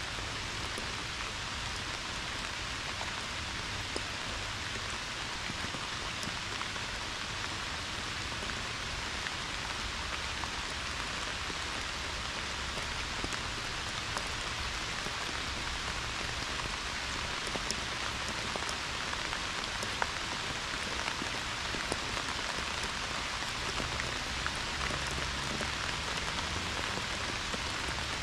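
Pouring rain falling steadily: a dense, even hiss with many individual drops striking sharply through it.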